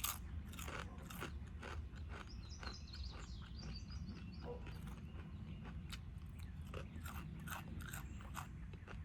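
Close-miked chewing of a chipotle chicken salad sandwich: a run of crunching bites and chews over a steady low rumble.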